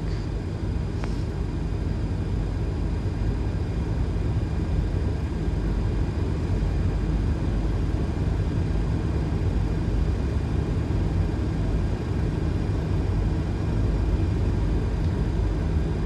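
Steady flight-deck noise of a Boeing 737 on final approach with gear down and flaps 30: an even rush of airflow over a low rumble, with a steady hum underneath.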